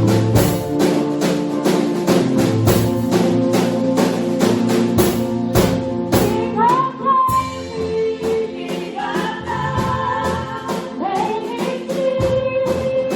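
Gospel worship music from a church band, with a steady percussion beat of several strokes a second over sustained bass and keyboard tones. A singing voice comes in about halfway through.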